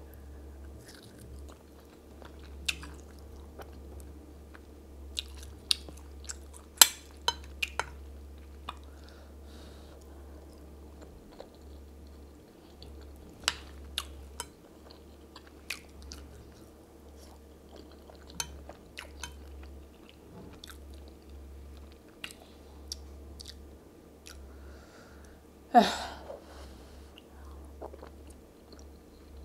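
Close-miked chewing and biting of chicken and plantain in pepper soup, with scattered sharp wet clicks from mouth and spoon. A louder mouth sound comes about 26 seconds in. A steady low hum runs under it all.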